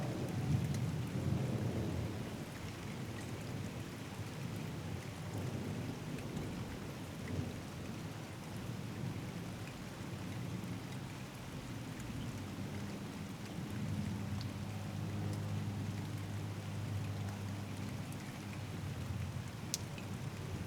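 Steady rain falling during a thunderstorm, with a low rumble of thunder that is heaviest in the first couple of seconds. A steadier low rumble comes back in the second half.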